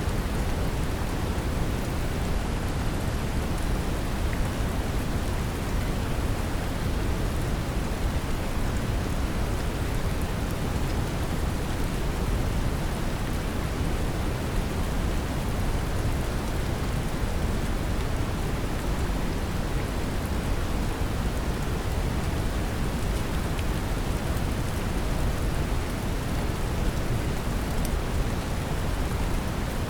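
Brown noise mixed with steady rain: an even, deep hiss, heaviest in the bass, unchanging in level.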